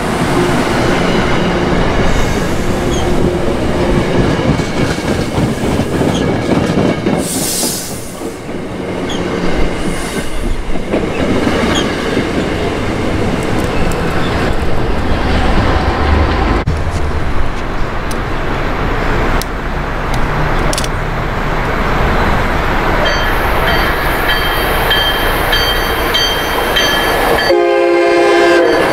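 Commuter rail trains: one rolls away from the station platform with wheels clacking over the rails, then near the end another approaches and its horn sounds a short chord.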